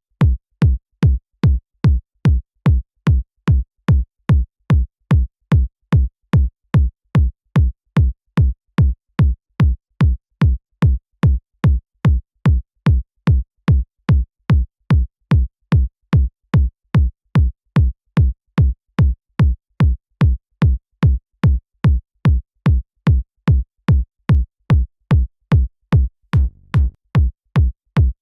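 Synthesized electronic kick drum looping on its own at about two hits a second, each a sharp click that drops quickly in pitch into a short deep boom.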